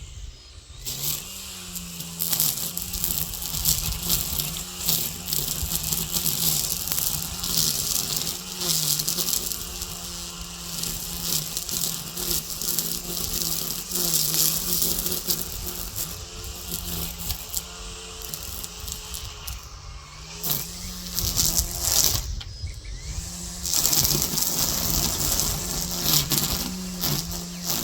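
Gas string trimmer running at high throttle, its small engine giving a steady buzz while the line cuts weeds with a dense hiss and ticking. The throttle is let off briefly a few times, dropping the pitch, around ten seconds in, near twenty seconds and again a couple of seconds later.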